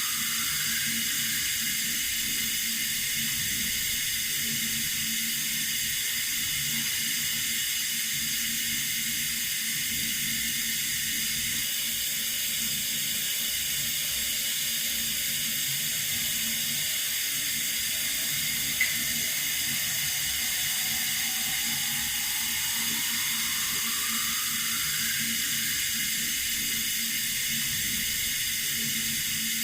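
Water running steadily from a tap, an even hiss with no change in level. A single brief tick about two-thirds of the way through.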